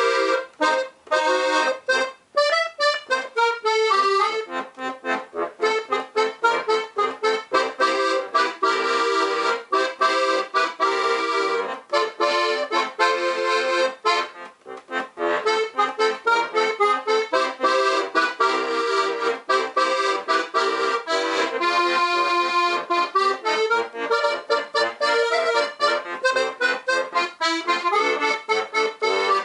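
Weltmeister Monte Nature piano accordion, four reeds per key (LMMM) with Helikon bass, playing a lively alpine tune in quick, even pulses of melody and chords. The playing breaks off briefly about two seconds in and again midway.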